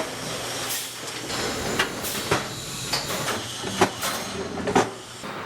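Euroform panel cleaning and stacking machine running: a steady machine noise with about six sharp knocks at uneven intervals as the panels are handled.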